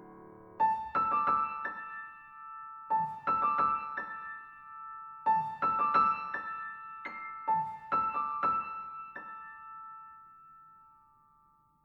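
Relaxation music: a high piano melody played in four short phrases of struck notes, each note ringing on and then dying away, with the last notes fading out near the end.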